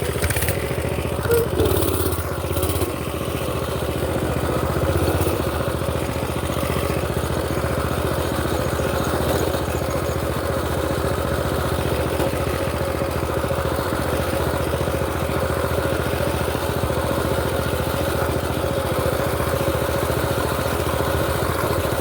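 Small mini-bike engine running steadily at a fairly constant speed, with a few knocks and rattles in the first few seconds.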